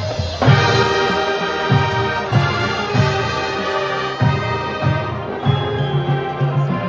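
High school marching band playing a brass-heavy passage: sustained brass chords over moving low brass lines, with drums. There is a loud accented entry about half a second in.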